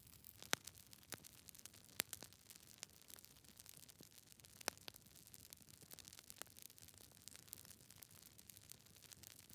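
Logs burning in a fireplace, crackling: irregular small clicks over a faint hiss, with three sharper pops about half a second, two seconds and nearly five seconds in.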